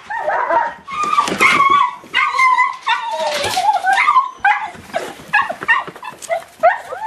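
Nine-month-old boxer puppy whining and yipping with excitement. Long, wavering whines come first, then a run of short, quick yips from about halfway.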